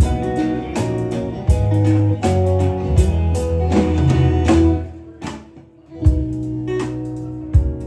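A band playing a song: guitar over bass notes and drum hits. The band drops almost to nothing about five seconds in, then comes back in with a drum hit a second later.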